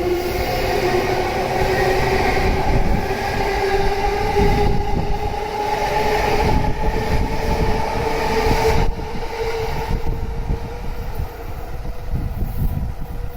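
Electric commuter train passing through a station at speed: its traction motors whine in two steady tones that slowly rise in pitch over the rumble of wheels on rail. The whine stops abruptly about nine seconds in, and the wheel and rail noise carries on.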